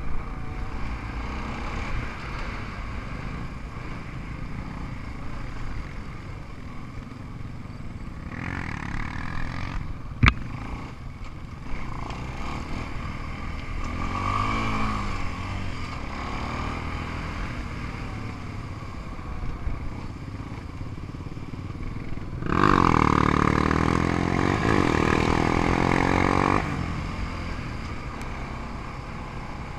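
ATV and dirt bike engines running, with one sharp knock about a third of the way in and an engine revving much louder for about four seconds near the end.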